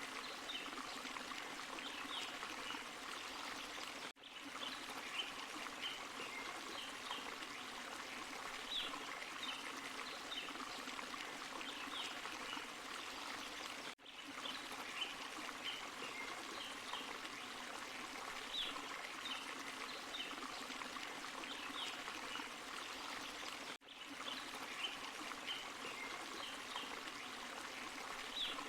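Forest stream and small waterfall running steadily, a continuous rushing and splashing of water with small bright splashes on top. The sound drops out briefly three times, about ten seconds apart.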